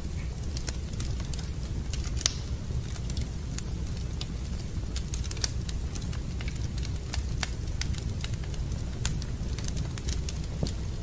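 Wood fire burning in a fireplace: irregular sharp crackles and pops of the burning logs over a steady low rumble, with a louder pop a couple of seconds in.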